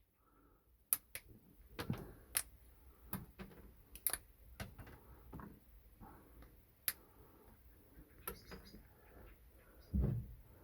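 Irregular light clicks and taps of small metal parts and hand tools as a small microwave motor is taken apart, with a duller knock near the end.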